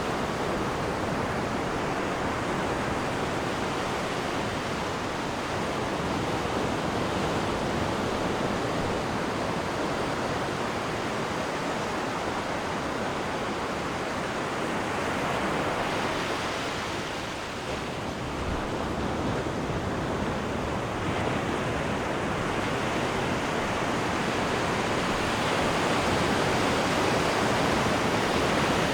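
Sea water rushing and churning in a cruise ship's wake: a steady, dense wash of noise that eases briefly about two-thirds of the way through and swells a little near the end.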